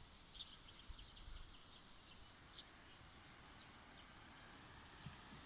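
Outdoor nature ambience: a steady, high-pitched drone of insects, with a few short bird chirps, one about half a second in and one about two and a half seconds in.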